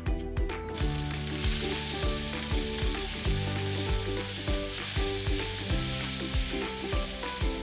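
Cornstarch-coated chicken pieces sizzling as they fry in butter in a hot pan, the sizzle starting about a second in. Background music with a steady beat plays underneath.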